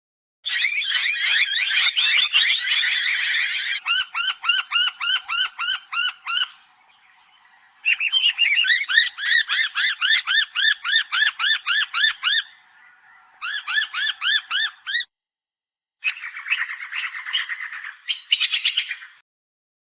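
Noisy miners calling: fast runs of repeated rising-and-falling notes, about five or six a second, in several bursts separated by short breaks.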